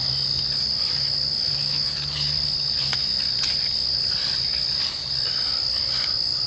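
Night insects, crickets, trilling in one continuous high-pitched note that never breaks, with a faint steady low hum underneath and a few soft clicks.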